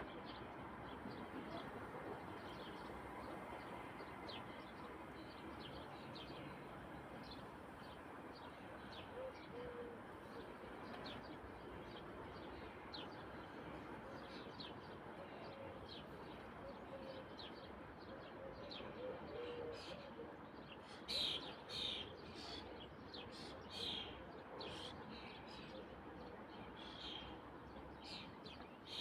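Birds chirping: many short, high calls scattered throughout, louder and more frequent about two-thirds of the way in, over a steady background hiss.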